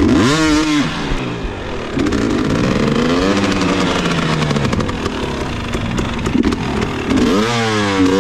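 Dirt bike engine revving in sharp throttle bursts, the pitch shooting up and dropping back right at the start and again near the end, with a slower rise and fall in between, as the bike is worked through a rooted off-camber woods section.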